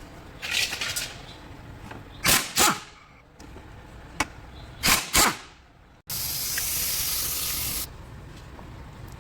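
Short hissing spray bursts, two pairs of quick sprays, then a steady hiss lasting about two seconds, over a low steady rumble.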